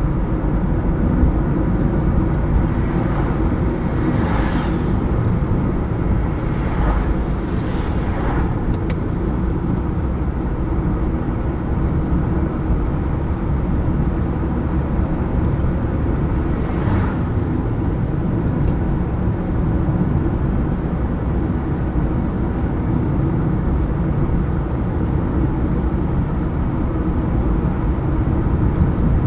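Car driving along a highway: a steady low rumble of engine and tyre noise, with brief whooshes about four, seven and eight seconds in and again around seventeen seconds.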